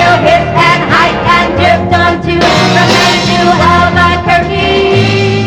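Live pop band music with singing and steady drum strokes, ending on a held chord near the end.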